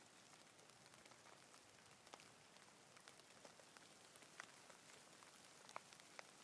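Faint, steady light rain: an even hiss with scattered single raindrops ticking.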